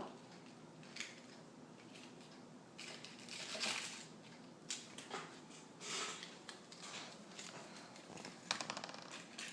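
Small painted tin-foil model cars crinkling and crunching faintly as they are pressed flat, in a few scattered bursts, the loudest near the end.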